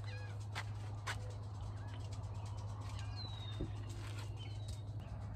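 Birds calling outdoors: a few short, high falling whistles and chirps, one clearer call about three seconds in, over a steady low hum and a few faint clicks.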